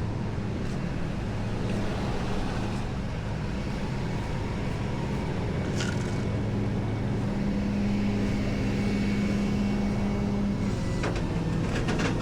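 Truck engine running steadily, with a droning hum that grows stronger past the middle and drops off shortly before the end. There is a single click about six seconds in.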